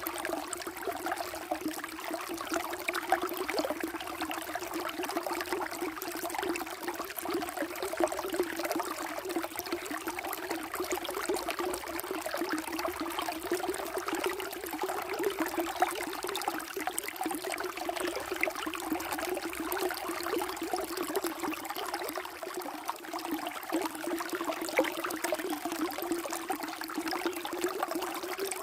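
Water flowing steadily, a continuous unbroken rush.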